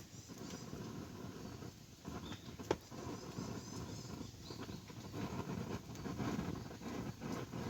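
Wood campfire burning, crackling with many small irregular pops, and one sharp louder snap a little under three seconds in.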